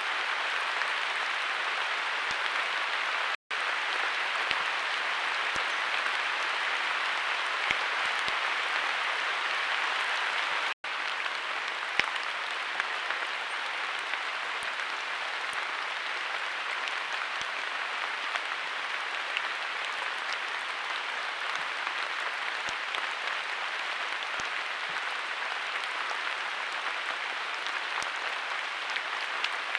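Steady heavy rain falling, an even hiss with scattered drop clicks; the sound cuts out for an instant twice, a few seconds in and again about eleven seconds in.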